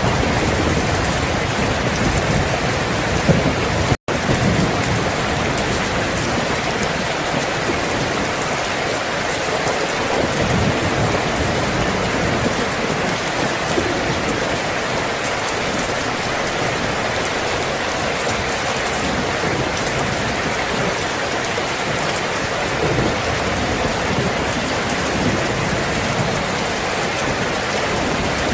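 Steady heavy rain falling, with low rumbling of distant thunder through roughly the first ten seconds. The sound cuts out for an instant about four seconds in.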